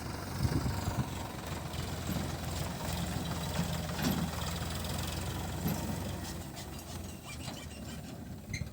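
Tractor engine running steadily at a low, even pitch, with a few louder knocks.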